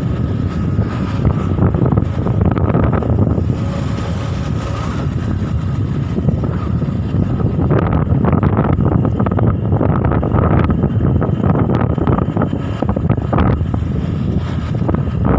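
Wind rushing over the microphone over the steady rumble of a moving vehicle.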